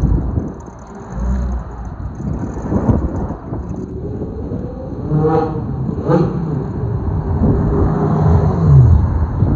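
Car engines running and revving over a low rumble, with two short revs about halfway through and a pitch that falls near the end.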